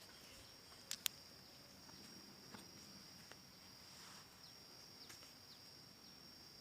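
Faint, steady high-pitched insect trill, with two sharp clicks about a second in.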